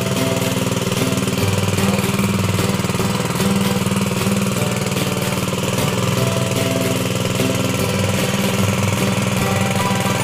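Small engine of a paddy-field water pump running steadily at an even speed.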